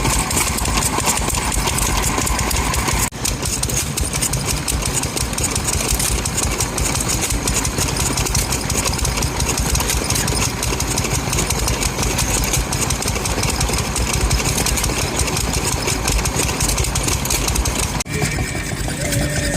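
Engine running steadily, with the sound breaking off and picking up again about three seconds in and once more near the end.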